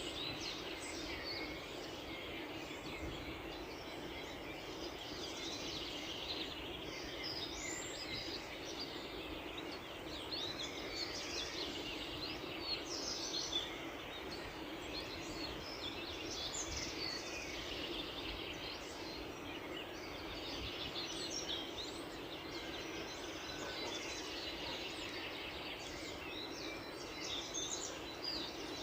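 Many small birds chirping and singing at once, a dense overlapping chorus of short, high calls, over a steady low background hum.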